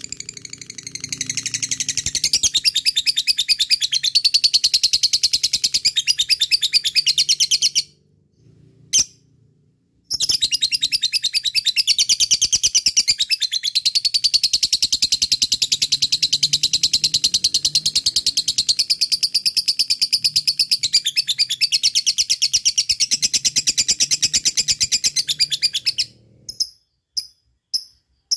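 Lovebird giving its long 'ngekek' chatter: a rapid, high-pitched trill that runs on for many seconds, breaks off briefly about eight seconds in, and ends with a few short chirps.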